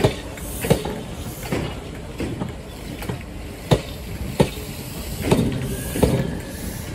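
A train moving slowly, its wheels clunking over rail joints at an even beat of about one clunk every three-quarters of a second, over the low running hum of the train.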